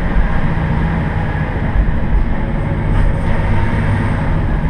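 Noto Railway diesel railcar under way: its engine running with a steady low rumble over the noise of the wheels on the rails.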